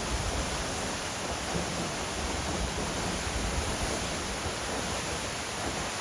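Steady rushing noise of a waterfall pouring into its pool, with uneven gusts of the wind it generates buffeting the microphone.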